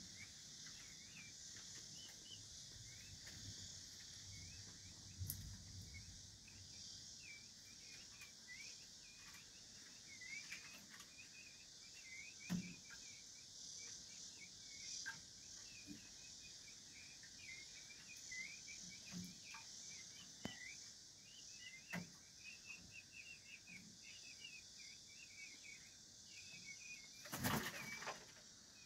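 Faint, rapid, irregular chirping of small birds over a steady high hiss, with a few soft knocks. Near the end comes a brief flurry of wing flapping as a peachick flies up onto a perch.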